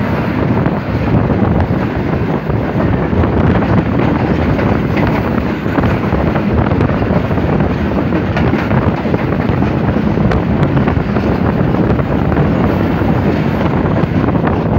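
Two passenger trains passing each other on adjacent tracks, heard from the open door of one: a steady, loud rush of wheel-on-rail clatter from the passing coaches, with scattered clicks, mixed with wind buffeting the microphone.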